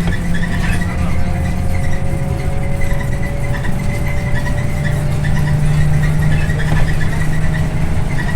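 Scania OmniLink I bus under way, heard from inside the cabin: a steady diesel engine hum with a thin whine that slowly rises in pitch as the bus gathers speed, and light rattles ticking along over it.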